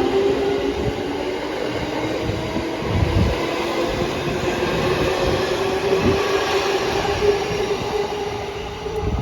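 E231-series electric commuter train pulling away: the traction motor hum climbs slowly in pitch as it gathers speed over steady running noise. The wheels give a low thud over rail joints about three and six seconds in.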